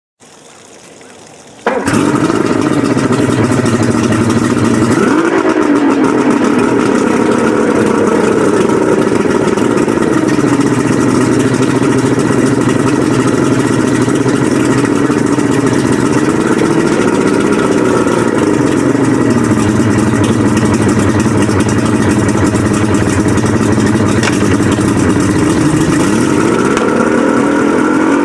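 Twin 1998 Yamaha 250 HP V6 two-stroke outboard motors come to life about two seconds in, then idle steadily together. Their pitch slowly wavers up and down.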